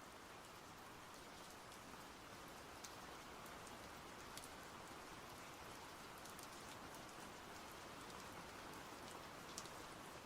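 Faint steady rain, an even hiss with scattered single drops ticking sharply on a surface now and then.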